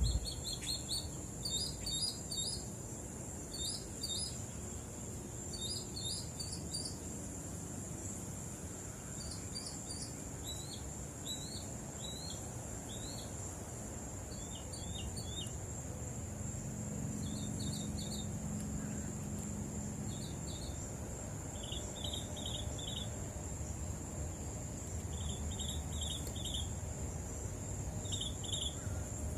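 Small birds chirping in short clusters of two to four quick notes, repeated every second or two, over a steady high-pitched drone and a low background rumble.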